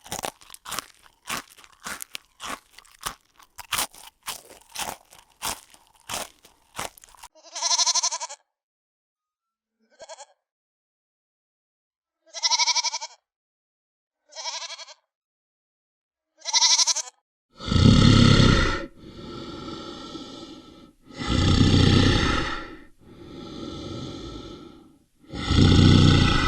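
A run of rapid crunching clicks, then several short bleats spaced a few seconds apart. From about two-thirds of the way in, loud deep animal calls alternate with quieter breathy sounds.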